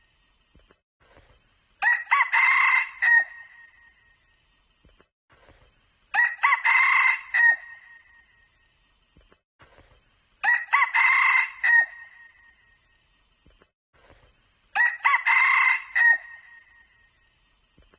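Red junglefowl cock crowing four times, evenly spaced about four seconds apart, each crow short and clear, lasting about a second and a half.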